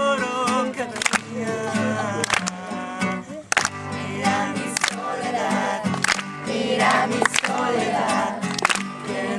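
Acoustic guitar strummed in a steady rhythm, with a voice singing a song along with it.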